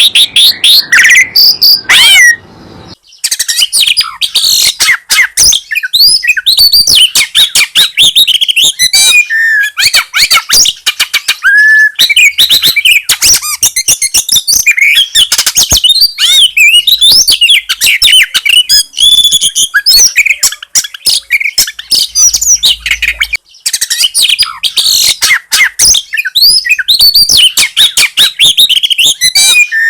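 Caged songbirds singing loudly, with a dense stream of rapid, high chirps and whistled phrases and a brief break about three seconds in.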